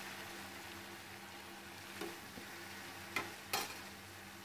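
Chopped spinach sizzling faintly in hot oil in a steel kadhai, a steady soft hiss as the leaves begin to wilt. A few light clicks sound about two, three and three and a half seconds in.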